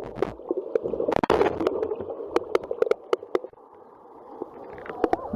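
Water sloshing and splashing, broken by many sharp knocks. It dies down a little after the middle and picks up again near the end.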